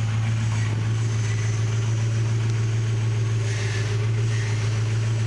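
HEMI V8 engine running steadily in the bare donor chassis, a constant low hum with no change in speed.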